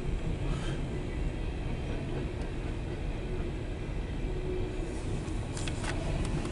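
Empty CSX coal train rolling past, heard from inside a car: a steady low rumble of wheels on rail, with a few short clicks near the end.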